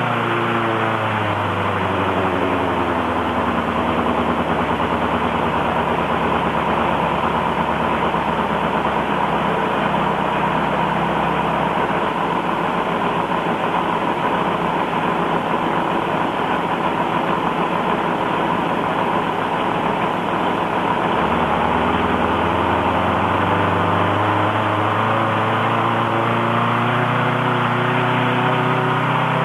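Kinner K5 five-cylinder radial engine running; its pitch falls over the first few seconds, holds steady through the middle, then rises again over the last several seconds.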